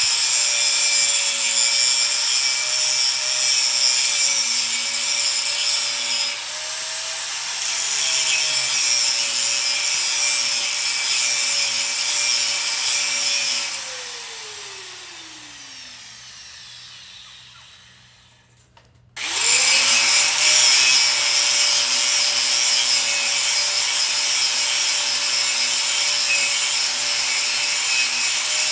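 Electric grinder running against metal with a steady whine and grinding noise. About 14 s in it is lifted off and switched off, winding down in pitch to a stop, then it is switched on again, spins quickly back up and goes on grinding.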